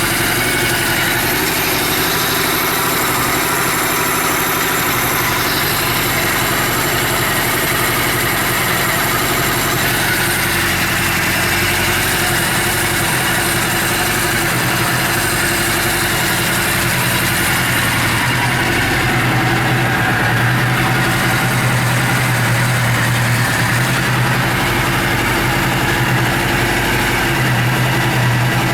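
Suzuki GS750E air-cooled inline-four engine idling steadily, its low hum growing a little stronger about two-thirds of the way through.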